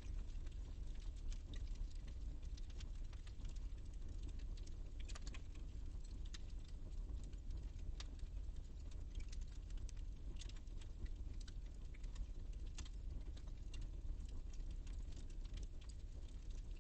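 Fire in a fireplace crackling: irregular small snaps and pops over a steady low rumble of the flames.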